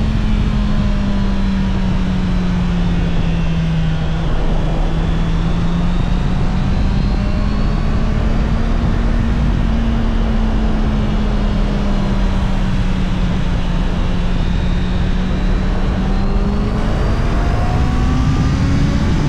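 Honda CBR650R's inline-four engine on its stock exhaust, running under way at a fairly steady speed. The pitch eases down a little and back up, then starts to rise near the end as the bike accelerates.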